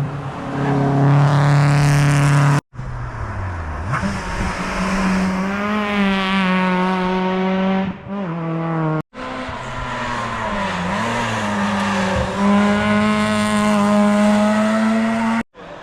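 Rally cars going past one at a time at full throttle, engines revving high and dipping briefly at each upshift. The sound breaks off abruptly twice where separate passes are cut together.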